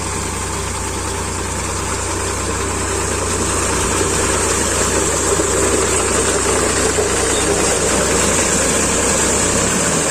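Powertrac 445 DS Plus tractor's diesel engine running steadily, growing a little louder over the first few seconds.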